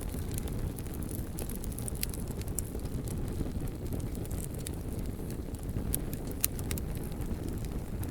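Bonfire burning: a steady low rumble of the flames with scattered sharp crackles and pops from the burning logs, one louder pop about six and a half seconds in.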